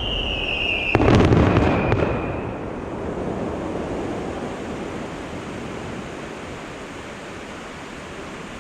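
Fireworks: a whistle falling in pitch, then a sharp bang about a second in with a second of loud burst noise after it. Then a steady hiss slowly fades away.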